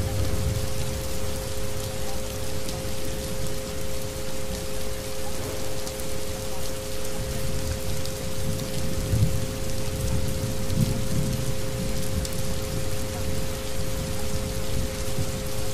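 Steady rain falling on a hard surface, with a low rumble underneath. Two steady electronic tones, the soundscape's isochronic frequencies, sound together throughout.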